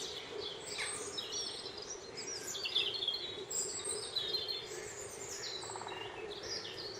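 Several birds chirping and calling, short high chirps and trills scattered throughout over a faint steady hum.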